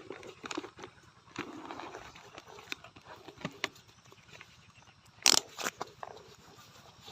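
Irregular footsteps and rustling with scattered clicks and knocks, the loudest a sharp knock about five seconds in.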